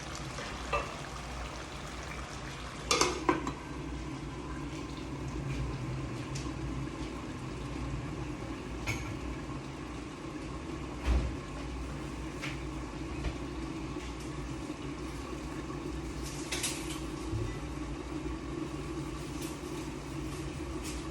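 Scattered clinks and knocks of kitchen utensils against cookware over a steady low hum, with about half a dozen sharp strikes spread through the stretch.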